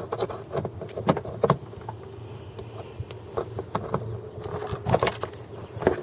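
Irregular light clicks and knocks of a connector and small parts being handled and fitted by hand.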